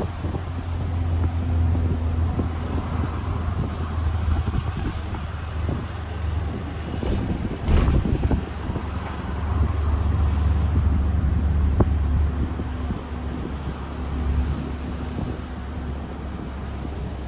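Motor vehicle running with a steady low engine rumble and road noise, with a couple of brief sharper noises about seven and eight seconds in.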